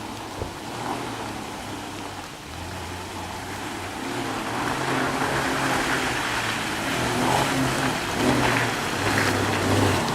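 Jeep Cherokee engine pulling up a muddy hill, its note stepping up and down as the throttle changes and growing louder, under a steady broad hiss. There is one sharp click about half a second in.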